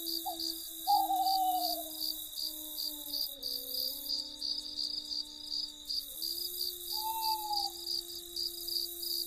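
Crickets chirping in a fast, even pulse of about three to four chirps a second, over a few steady lower tones that shift pitch now and then. About a second in, a louder wavering call slides down in pitch.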